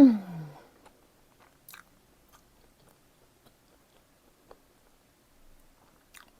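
Chewing pizza close to the microphone: sparse, faint wet mouth clicks. Right at the start, a loud short hum of the voice that falls in pitch.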